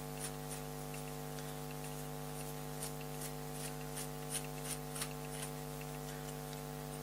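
Light, irregular metallic clicks as a steel bolt is turned in and out of a freshly tapped steel tee nut and the parts are handled, stopping toward the end. A steady electrical hum runs underneath.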